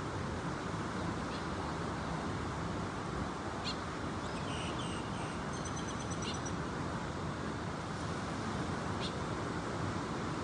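Steady rushing of sea surf and wind, with a few faint high bird chirps around the middle.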